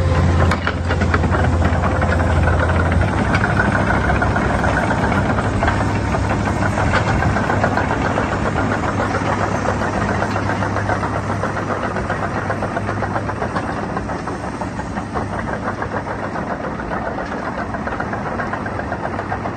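Komatsu PC210LC tracked excavator's six-cylinder diesel engine running steadily, with a dense, fast clatter over it. It grows slightly quieter in the second half.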